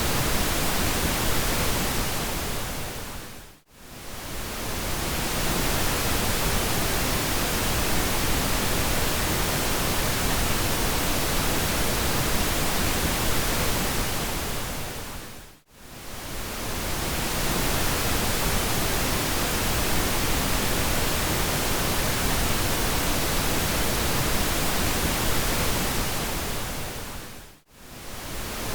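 Steady pink noise, a smooth even hiss across all pitches, that fades down almost to silence and straight back up three times, about every 12 seconds.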